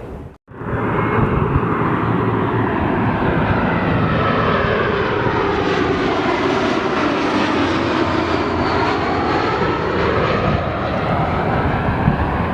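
Engine noise of a passing airliner flying low overhead, a steady roar with a whooshing tone that sweeps down and then back up as it passes. The sound starts after a brief cut to silence just after the start.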